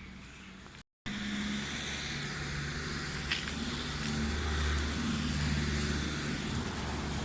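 Car driving, with a steady low engine and road rumble that grows a little louder partway through. A single brief click sounds about three seconds in.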